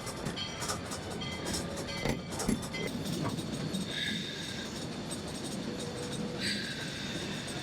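Cab noise of the Georgetown Loop No. 40 narrow-gauge steam locomotive rolling on the track: a steady rumble with scattered clicks and knocks, and high wheel squeals about four seconds in and again near the end.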